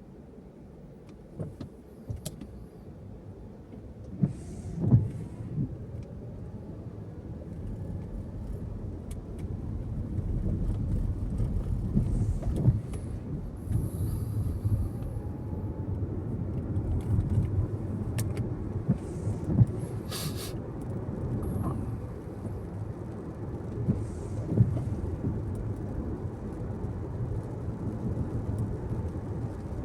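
Road and engine noise of a moving car, a steady low rumble that grows louder as the car picks up speed and then holds, with occasional knocks and clicks.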